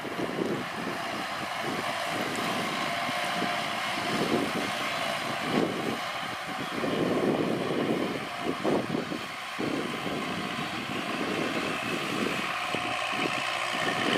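Kubota L4708SP tractor's diesel engine running steadily, with uneven low surges in its rumble.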